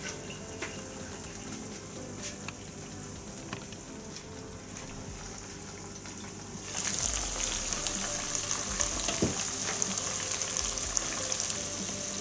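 Quail roast sizzling in its masala in a pot. For the first part it is a faint crackle under the glass lid. About seven seconds in it turns suddenly louder into a dense hissing sizzle with many crackles as the pot is uncovered.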